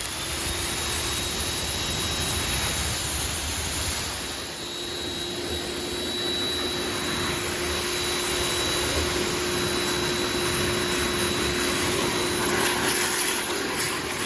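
Pressure washer running and spraying water through a double nozzle tip fitted with two 0-degree nozzles: a steady rushing hiss with a faint steady whine, starting abruptly. The flow is split between the two nozzles, so the stream comes out with little pressure.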